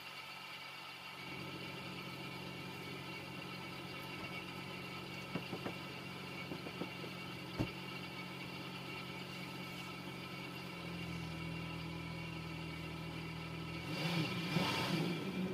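SUV engine idling steadily, its note shifting about eleven seconds in. A few short knocks sound midway, and a louder rustling noise comes near the end.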